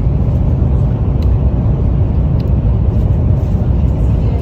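Steady low rumble of a high-speed train running at speed, heard from inside the passenger car, with a few faint ticks now and then.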